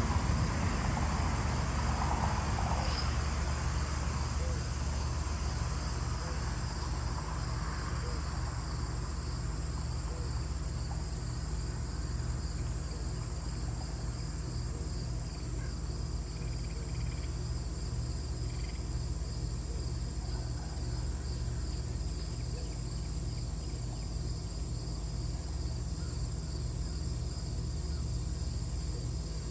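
Insects chirping in a steady, rapidly pulsing chorus over a low steady hum. A broader rushing noise is loudest at the start and fades away over the first several seconds.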